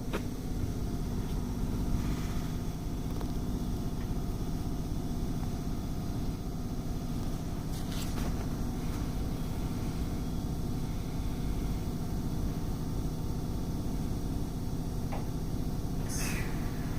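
Electric train running on the rails: a steady low rumble with a few sharp clicks from the wheels, and a brief hiss near the end.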